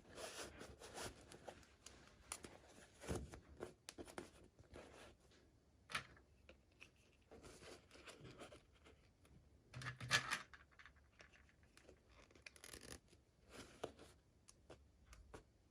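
Toy packaging being handled and torn open: faint, irregular crinkling, scratching and tearing, with the loudest tear about ten seconds in.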